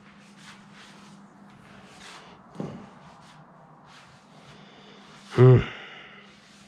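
Faint rustling as a car wiring harness is handled, with a soft knock about two and a half seconds in and a short hummed voice sound from a man near the end; a steady low hum runs underneath.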